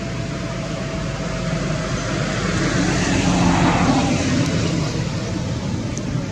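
A vehicle passing by on the road: engine and tyre noise swells to a peak about three and a half seconds in and fades again, over a steady low rumble of traffic.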